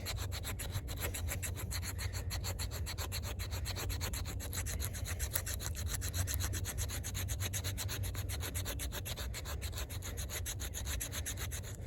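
AUS-10 steel knife blade scraped rapidly and evenly along a stick of fatwood near its spine jimping, many short rasping strokes a second, shaving off a small pile of fine resinous scrapings for tinder.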